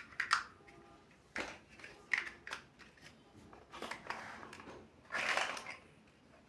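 Plastic building-block bricks being handled and snapped together: scattered short clicks and rustling, with a longer scraping rattle about five seconds in.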